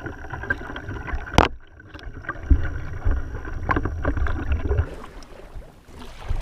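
Kayak on the water: wind rumbling on the microphone, water sounds and gear handling on the hull, with one sharp knock about a second and a half in.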